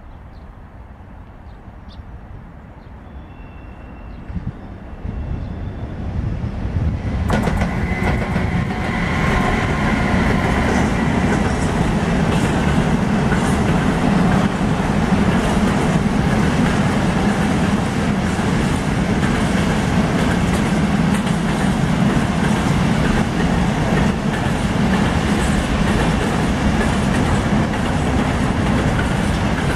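Freight train of open coal wagons approaching and passing: a rumble builds from about four seconds in, turns loud at about seven seconds, then holds as a steady roll of wagon wheels with repeated clicks over the rail joints.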